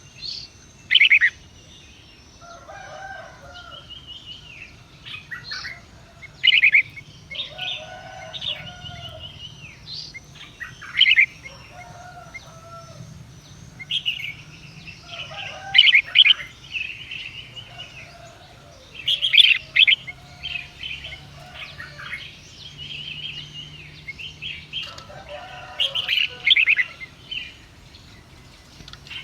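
Small birds chirping and trilling repeatedly, short loud bursts every few seconds with softer chatter in between.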